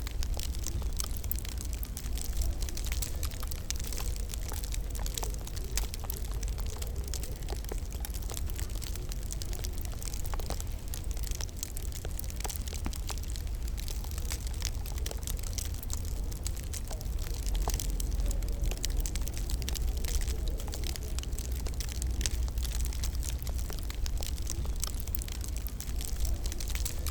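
Wood fire crackling in a fireplace: a dense, steady run of small pops and snaps over a soft hiss and a low rumble.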